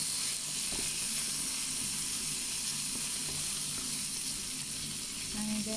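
Chopped garlic and coriander leaves frying in hot oil in a nonstick pan, giving a steady sizzle.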